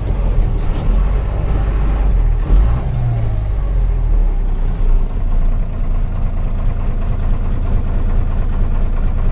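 Truck engine running steadily under way, a loud low drone, with a brief thump about two and a half seconds in.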